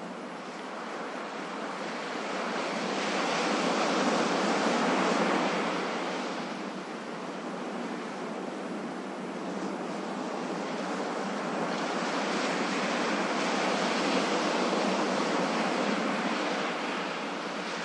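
Ocean surf washing on a shore, a steady rush of water that swells and fades slowly, louder about four seconds in and again in the second half.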